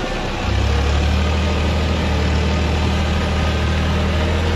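Tractor's diesel engine running steadily, its hum getting stronger about half a second in.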